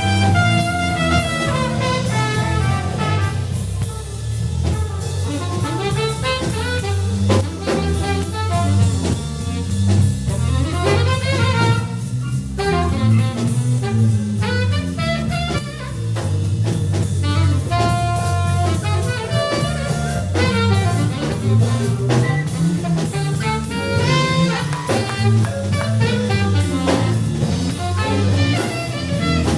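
Live jazz band playing an instrumental: a melody line over a moving bass line and drum kit, with no singing.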